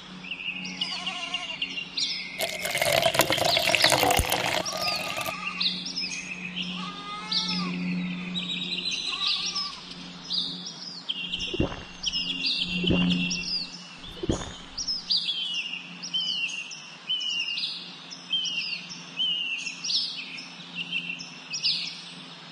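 Small birds chirping over and over: a dense, steady run of short, falling chirps. For a few seconds near the start a loud rushing noise covers them.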